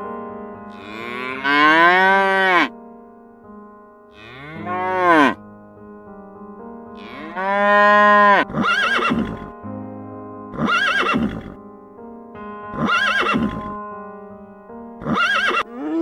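An animal calling repeatedly over steady background music: three long calls that rise and then fall in pitch, followed by four shorter calls about two seconds apart.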